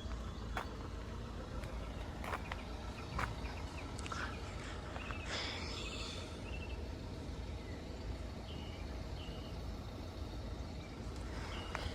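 Outdoor background noise: a steady low rumble, with a few small clicks and several short high chirps about two thirds of the way through and near the end.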